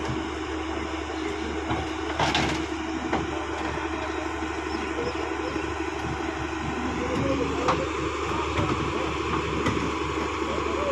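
Tracked excavator's diesel engine running steadily, with sharp metallic knocks from the machine about two seconds in and again near eight seconds.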